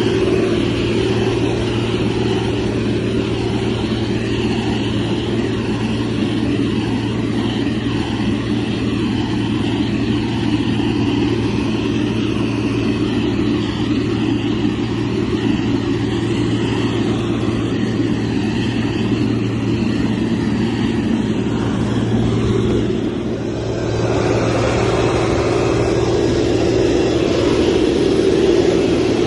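Motor grader's diesel engine running steadily under load, with a brief drop in loudness about 23 seconds in before it picks back up.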